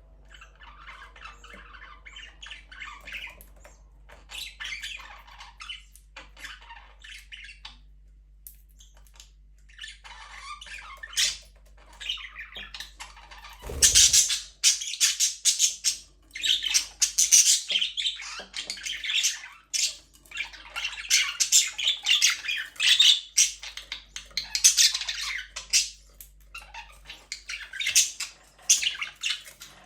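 Budgerigars chattering, chirping and squawking, softer at first and much louder from about halfway through. A brief low thump comes just before the loud part.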